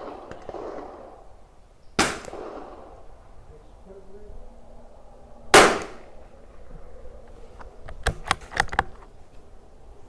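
Two sharp .22 LR rimfire rifle shots about three and a half seconds apart, the second louder. Near the end comes a quick run of light clicks.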